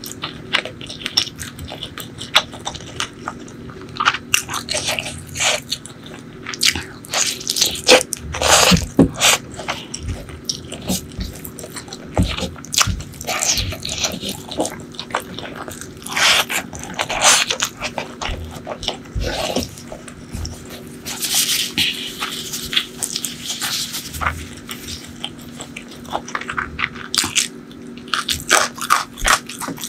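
Close-miked eating by hand: biting and chewing chicken, rice and crispy fried noodles, with irregular crackly crunches and mouth clicks, loudest about a third and halfway through.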